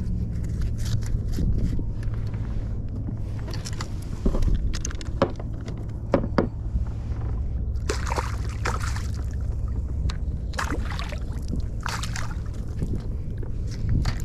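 Water splashing and sloshing against a fishing kayak in irregular bursts, over a steady low hum.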